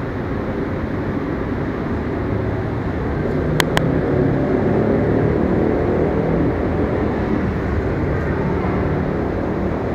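Steady rumbling station-hall noise that swells through the middle, with two sharp clicks in quick succession about three and a half seconds in.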